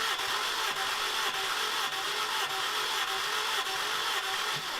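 Honda K20 2-litre four-cylinder engine cranking steadily on its starter motor, with the spark plugs out and the ignition and fuel disabled, for a compression test on cylinder 2. Cylinder 2 reads about 105 psi with oil added, in an engine with a probable head gasket failure. The cranking cuts off just before the end.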